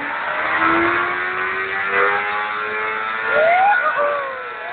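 Motorcycle engines accelerating at full throttle. One engine's pitch climbs steadily, then about three and a half seconds in another revs up sharply and falls away.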